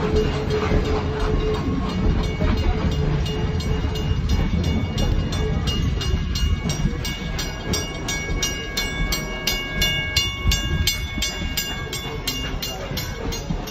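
Train running on the rails with a steady low rumble. A few thin, high, steady tones rise over the rumble for several seconds past the middle.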